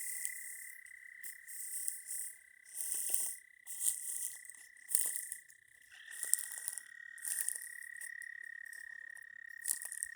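Night chorus of frogs and toads calling from a pond. A steady, unbroken high trill runs throughout, with short raspy calls breaking in about once a second over it.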